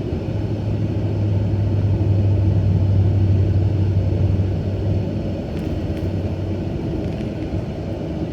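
Car interior during a drive through floodwater at a steady speed: a steady low engine hum with a continuous rumble, swelling a little a couple of seconds in.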